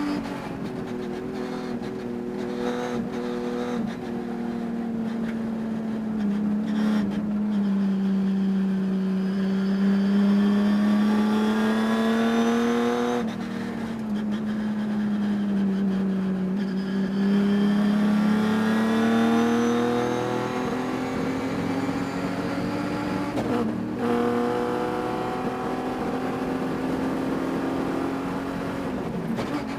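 Onboard sound of a race vehicle's engine at racing speed, its pitch rising smoothly along the straights and falling into the corners, several times over, with a brief sudden drop-off about 13 seconds in and again near 24 seconds. The driver reports a high-RPM miss in this engine that stayed through the race and can be heard.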